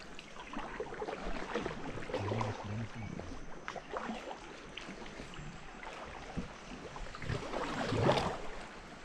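River water lapping and splashing around an inflatable raft drifting downstream, with a louder splash near the end.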